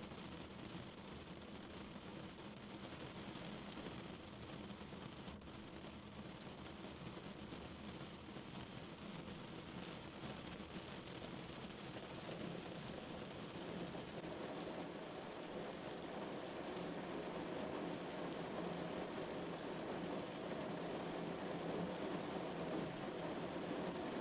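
Rain falling on a car, a dense steady patter of drops that grows gradually louder through the second half.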